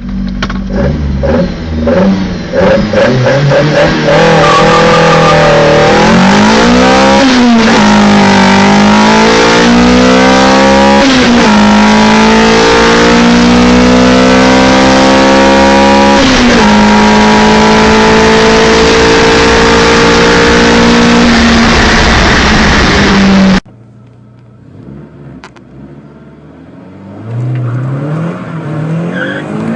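Small petrol hatchback engine accelerating hard through the gears, loud and close: the revs climb, then drop sharply at each upshift, three times. It cuts off suddenly, and after a quieter gap another car's engine revs up near the end.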